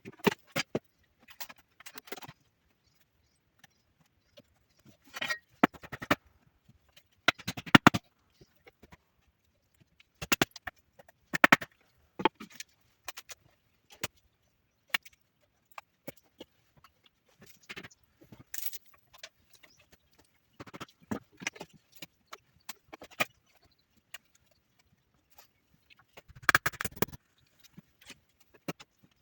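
Irregular knocks and clicks in short clusters every second or two, with near-silent gaps between.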